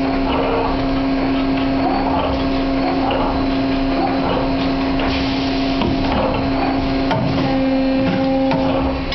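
RD-50 CNC wire bending machine running: a steady hum with one strong constant tone under irregular mechanical working noise.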